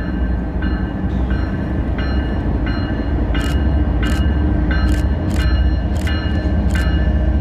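Diesel freight locomotives rumbling as the train approaches, growing steadily louder. A bell rings over it at an even pace, about three strikes every two seconds.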